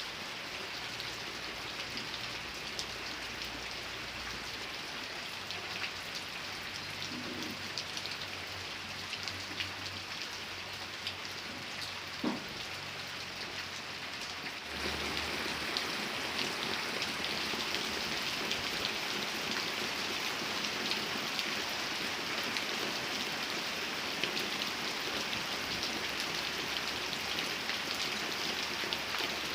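Steady rain falling, with many individual drop hits; it gets abruptly louder about halfway through.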